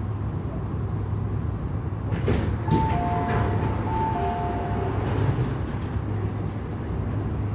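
Steady low hum of an MTR Tung Chung Line CAF train, with a couple of knocks and then a two-note electronic door chime, high then low, sounding twice about a third of the way in.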